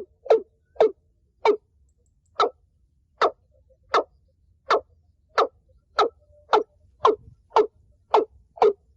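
Watercock calling: a long series of short, hollow notes, about fourteen in all. They come about two a second, slow to roughly one a second a couple of seconds in, then quicken again toward the end.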